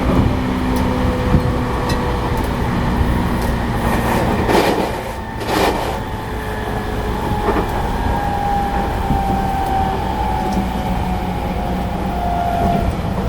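Interior of a JR East E217 series electric train motor car running on the line: steady rumble and wheel-on-rail noise with a motor whine that falls slowly in pitch in the second half as the train slows for the station. A loud rushing burst comes about four and a half seconds in.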